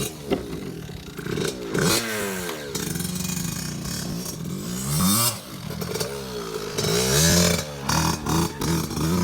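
Dirt bike engine revving as it is ridden, its pitch climbing and dropping again and again as the throttle is opened and closed.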